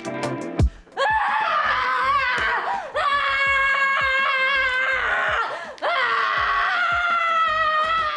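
A person screaming in three long, high-pitched wails of about two seconds each, with short breaks between them. A beat of music plays briefly at the start.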